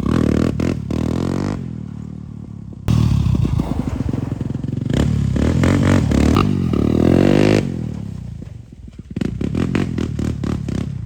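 Yamaha quad (ATV) engine running and revving, its pitch rising and falling as it is ridden, with sudden jumps in level about three seconds in and a dip around eight seconds before it picks up again.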